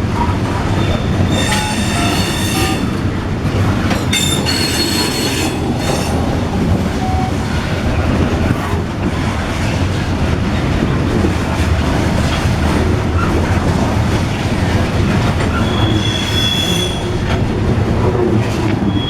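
Norfolk Southern coal train rolling past, a steady rumble of wheels on the rails with bursts of high-pitched wheel squeal about a second and a half in, again about four seconds in, and once more near the end.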